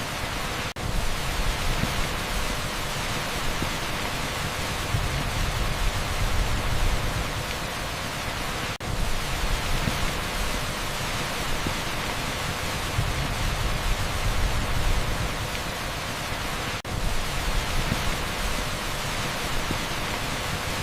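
Heavy rain pouring steadily onto a paved street: a dense, even hiss over a low rumble. Very brief dips in level come about every eight seconds.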